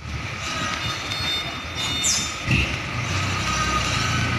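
Tractor-trailer truck's diesel engine running low and steady as it manoeuvres, with a short falling squeal about two seconds in and a loud knock half a second later.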